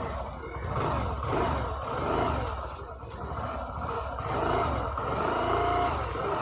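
Suzuki Avenis 125 scooter's single-cylinder air-cooled four-stroke engine, revved up and down several times so its exhaust note rises and falls.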